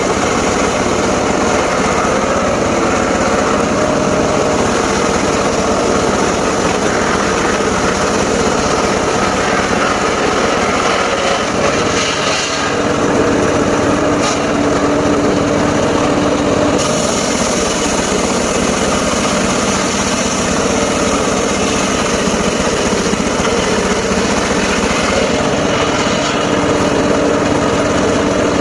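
Engine-driven mobile circular sawmill running steadily. There is a brief dip about twelve seconds in, then a steady tone rides over the engine for a few seconds.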